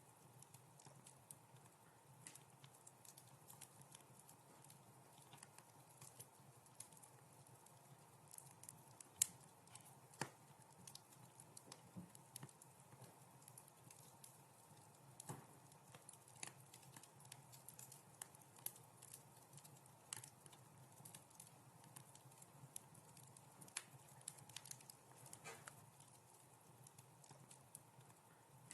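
Wood fire crackling quietly in a fireplace: scattered irregular pops and snaps over a faint hiss, with one sharper pop about nine seconds in.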